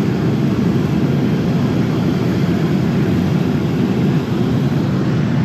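Aircraft engines giving a steady, loud rumble that stays even throughout.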